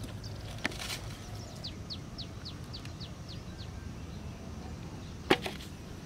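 A bird calling a run of about eight short, falling high notes, roughly four a second, over a steady low outdoor background. A single sharp knock near the end is the loudest sound.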